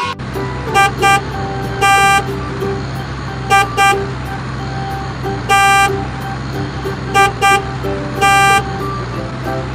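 Vehicle horn honking in a repeating pattern, two short beeps and then a longer one, three times over, above a steady low engine hum.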